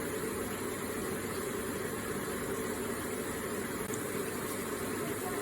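Electric water feature with water running and trickling steadily.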